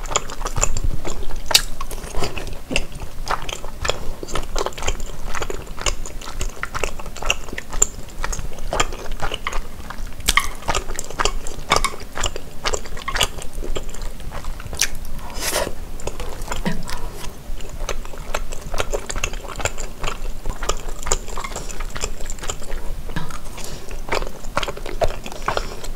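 Close-miked chewing of tteokbokki, the chewy rice cakes in sweet-spicy sauce, with wet mouth sounds and many small sticky clicks.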